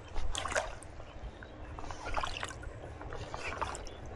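Legs wading through shallow river water, sloshing with irregular splashes.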